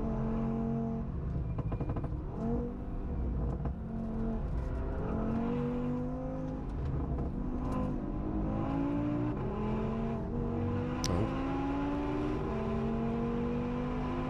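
Turbocharged 2.5-litre five-cylinder engine of an RS3-engined Audi S1 at full throttle on track. It revs up through the gears, its note climbing and then dropping at each shift.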